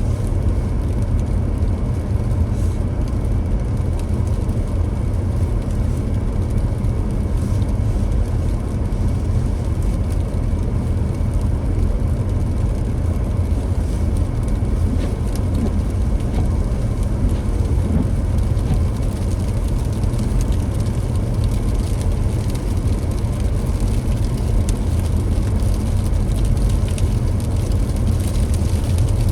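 Car driving at a steady pace: a constant low rumble of engine and road noise with no changes.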